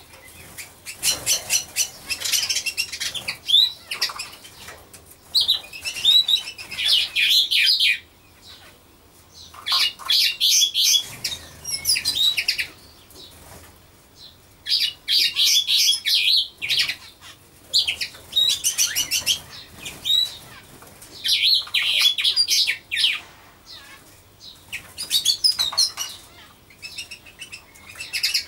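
Small birds chirping and twittering in repeated bursts of a second or two, each a quick chattering run of high notes, with short quieter gaps between.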